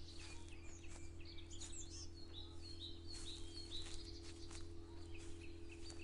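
Small birds chirping and twittering in many short calls, over soft footsteps at walking pace and a steady low hum.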